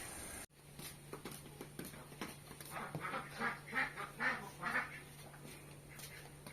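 Domestic ducks quacking: a run of about five quacks, roughly two a second, in the middle, with scattered faint clicks around them.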